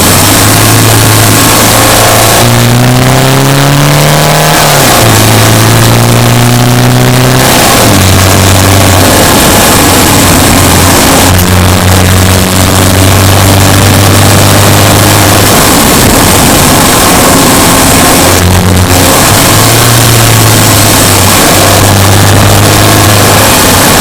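Subaru Impreza Sport GT7's flat-four boxer engine running under load while driving. The pitch climbs about two and a half seconds in, then drops suddenly, and the engine holds a fairly steady note with small changes for the rest.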